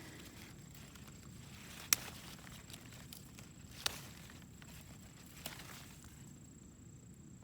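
Soybean (edamame) pods being picked by hand: soft rustling of the plants with three sharp snaps a second or two apart as pods come off.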